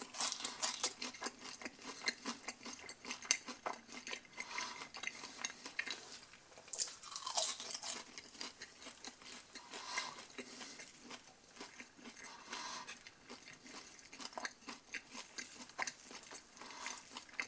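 A person chewing a mouthful of breaded onion ring close to the microphone: many small, irregular crunches throughout.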